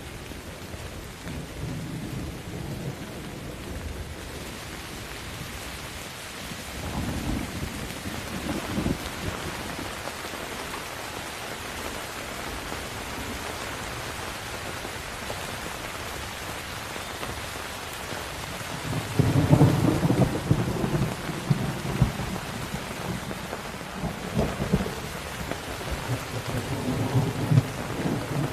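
Steady rain falling, with rolls of thunder rumbling through it: a short roll about a quarter of the way in and a louder, longer one past the middle, with more rumbling near the end.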